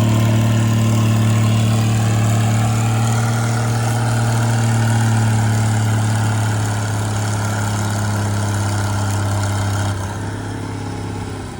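Diesel pulling tractor's engine running hard under load as it drags the sled, a loud steady drone that drops off about ten seconds in as the pull ends.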